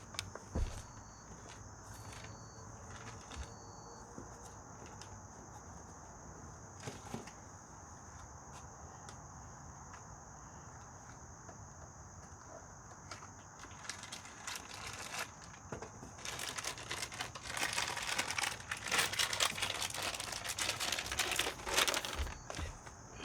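Hand-handling noises: a few scattered clicks, then from about two-thirds of the way through a dense run of crackling and crinkling, over a steady high-pitched whine.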